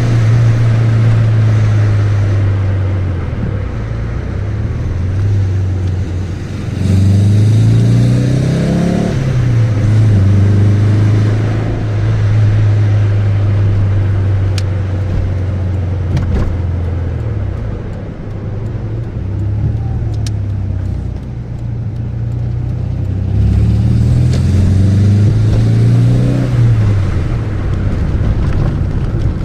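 Alfa Romeo 145's 1.6 flat-four boxer engine through a Ragazzon Sport aftermarket exhaust, driving at a steady low drone. Twice, about a quarter of the way in and again near the end, it accelerates with the pitch rising through the revs and then dropping sharply as the gear changes.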